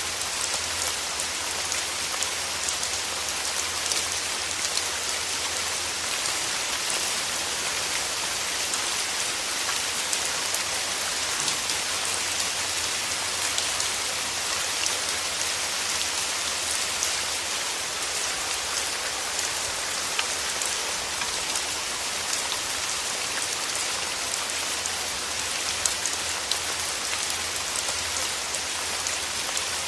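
Steady rain, an even hiss full of small individual drop hits, with no let-up or change.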